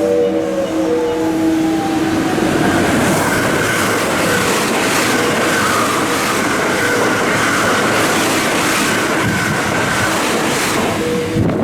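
An electric train passing along the station platform, its wheels clattering in an even rhythm over the rail joints, with a steady high whine and loud running noise that cuts off sharply near the end. A melody is heard in the first couple of seconds, sliding down in pitch as it fades.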